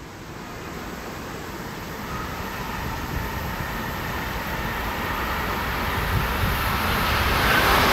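Passenger train approaching, its rumble and rail noise building steadily louder.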